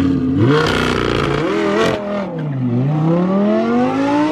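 Lamborghini Aventador SVJ's V12 through a Gintani F1 exhaust being revved: the pitch climbs sharply in the first half second and hangs high, drops off about two and a half seconds in, then climbs steadily again and falls away near the end.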